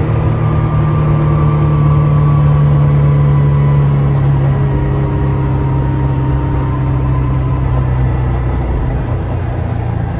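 1970 Porsche 911S's air-cooled 2.2-litre flat-six heard from inside the cabin while driving, a steady engine drone whose pitch sinks slowly as the revs ease off.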